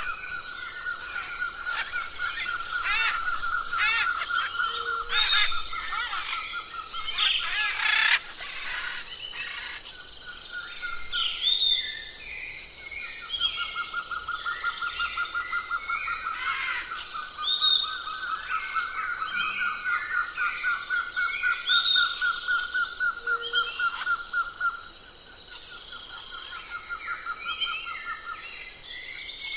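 Several birds chirping and whistling together, over a long, rapid trill held at one pitch. The trill breaks off briefly near the middle and stops shortly before the end.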